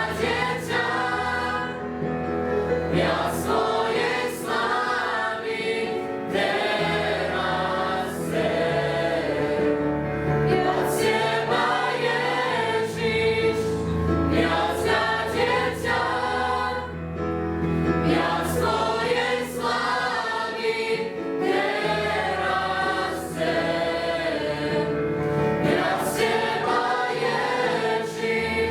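Youth choir singing a Christian song in phrased lines over sustained low notes.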